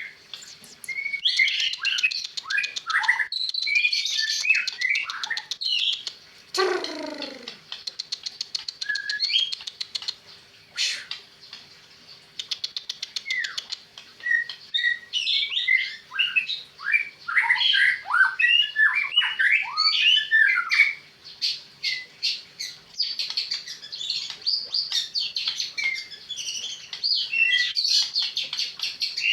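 White-rumped shama (murai batu) singing at length: a varied stream of loud whistled phrases mixed with rapid ticking rattles, broken by short pauses, with one long note sliding far down in pitch about seven seconds in.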